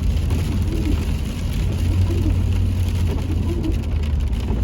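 Steady drone of a car's engine and tyres heard inside the cabin while driving.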